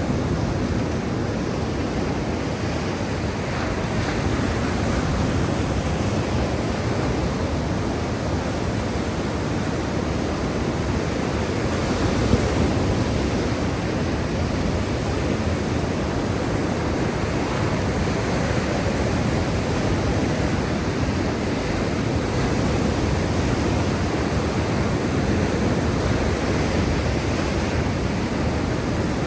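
Black Sea surf: a steady rushing wash of waves, continuous and without clear breaks.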